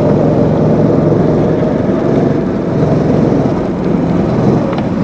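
Go-kart engine running under throttle at racing speed, a steady buzzing note that eases briefly a little before the end and then picks up again.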